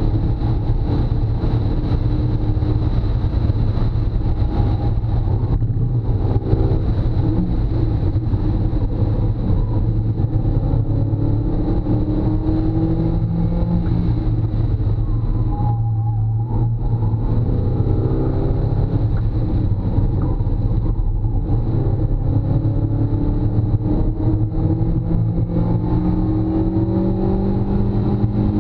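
Mazda MX-5 Miata's four-cylinder engine heard from inside the open-top cabin, pulling hard and rising in revs again and again, with brief lifts for braking and gear changes. Steady road and wind noise underneath.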